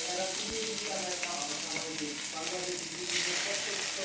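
Quail frying in a pan of hot oil, sizzling steadily.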